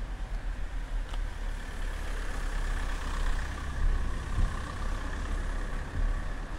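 A motor vehicle running on the street, its sound swelling from about two seconds in and fading near the end, over a steady low rumble.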